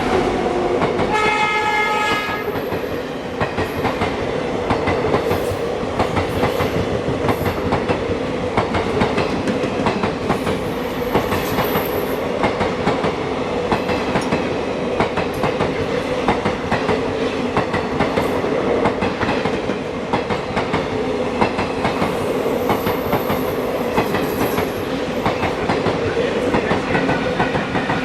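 Train hauled by a WAP-7 electric locomotive passing close by. A short horn blast sounds about a second in, followed by a continuous rapid clatter of wheels over rail joints.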